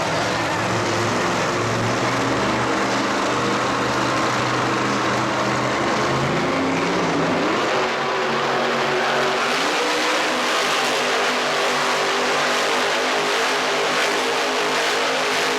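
Monster truck engine running loudly, its pitch climbing about halfway through, over a wide noisy haze.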